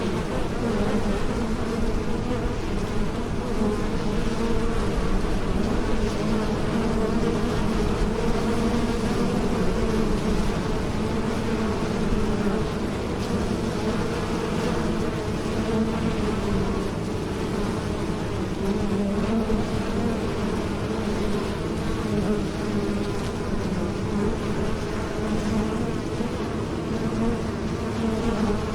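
Bees buzzing in flight: a continuous wing drone that wavers slightly in pitch and loudness.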